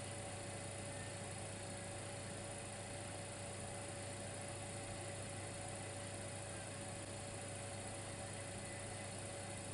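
Dimplex electric fireplace heater running: a steady low hum with a thin constant whine above it and an even hiss, unchanging throughout.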